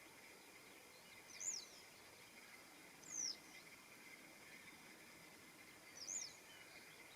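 Western yellow wagtail giving three thin, high calls, each a quick downward slide, about a second and a half in, three seconds in and six seconds in.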